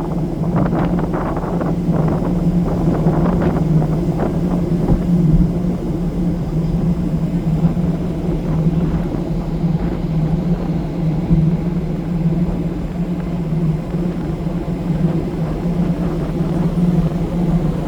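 Ferry's engines droning with a steady low hum throughout.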